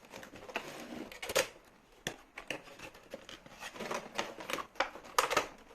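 A toy helicopter's cardboard box being opened and its packaging handled: irregular clicks, taps and short rustling scrapes.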